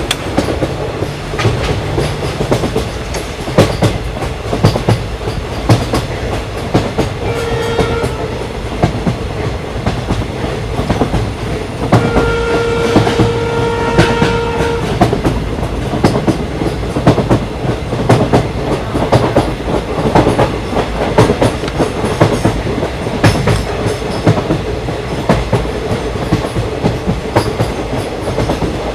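Train running on the rails with steady wheel clatter and rumble. Its horn sounds twice: a short blast, then a longer one lasting about three seconds.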